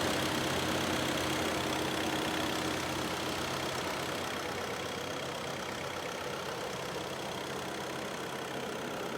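Volkswagen Vento's 1.5 TDI four-cylinder diesel engine running steadily, slowly getting slightly quieter.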